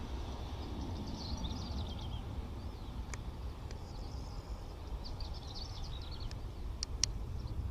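Small birds chirping and twittering in short bursts over a steady low outdoor rumble, with a few sharp clicks about three seconds in and twice near the end.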